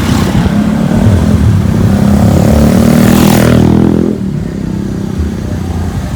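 A vehicle engine revving as it passes close by. It is loudest about three and a half seconds in, then drops away quickly.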